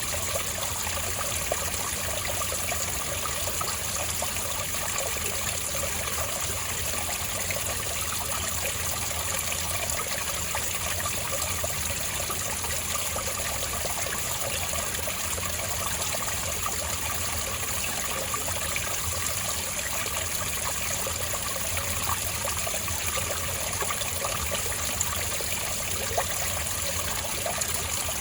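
Spring water trickling and burbling steadily over rocks, with small splashes flickering throughout.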